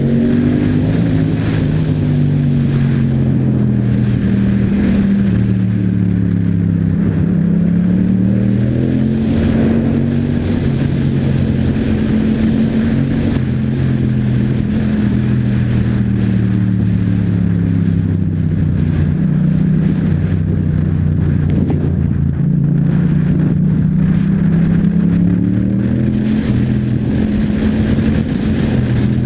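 Yamaha MT-07's 689 cc parallel-twin engine breathing through an Akrapovič exhaust under way, its note rising and falling again and again as the rider accelerates and eases off.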